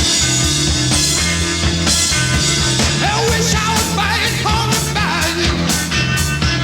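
Rock record playing, with a steady drum and bass beat; a melody line of bending, sliding notes comes in about three seconds in.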